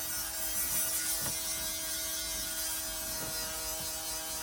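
A steady electrical hum with a high hiss, like a motor or appliance running, with a few faint light clicks.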